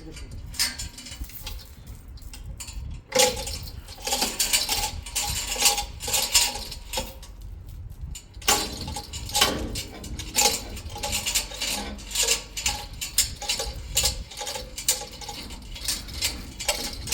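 Metal chain links rattling and clinking as the chain is handled, in quick, irregular, ringing taps with a short lull past the middle.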